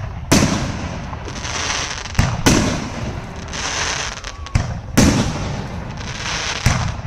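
Fireworks going off: about six sharp bangs at uneven intervals of a fraction of a second to two seconds, with crackling between them.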